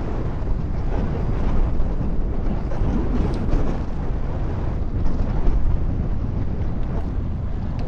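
Wind buffeting the microphone of a rider on a road bike at speed: a steady, deep rush of noise.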